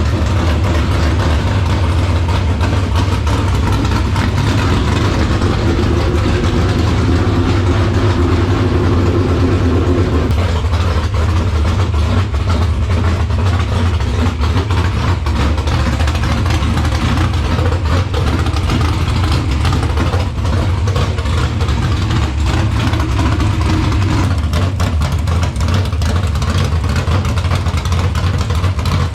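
Dirt late model race car's carbureted Phil Miller V8 racing engine running at a steady idle, its tone shifting slightly about ten seconds in.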